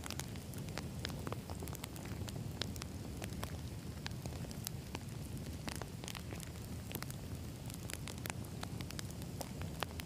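Wood campfire burning: a steady low rumble of flames with frequent, irregular sharp crackles and pops from the logs.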